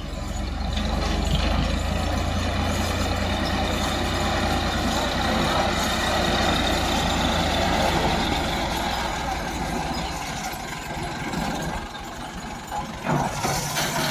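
Ford 3610 tractor's three-cylinder diesel engine running steadily, then dropping away after about ten seconds.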